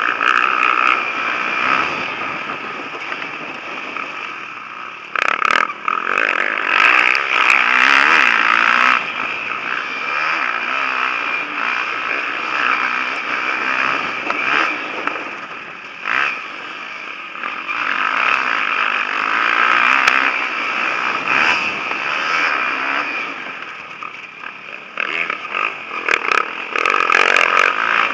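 Motocross bike engines revving hard and easing off, rising and falling as the bikes race around the track, with a few sharp crackles over them.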